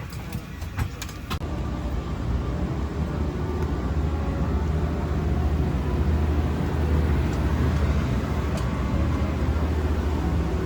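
A few sharp clicks in the first second and a half, then the steady low rumble of a Boeing 777-300ER's cabin parked at the gate, its air and machinery running.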